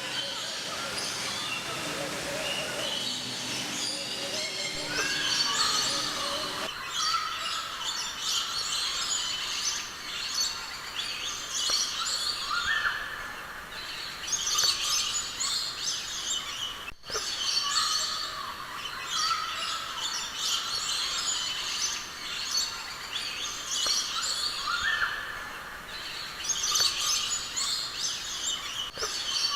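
A dense chorus of many birds chirping, tweeting and whistling at once in an aviary, with short rising whistles now and then. Faint voices murmur underneath for the first several seconds, then the birds go on alone, with a brief dropout about seventeen seconds in.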